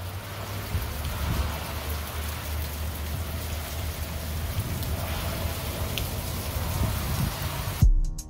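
Steady rain falling and pattering on wet ground, with a low steady rumble underneath. Near the end it cuts off with a sudden loud hit as music starts.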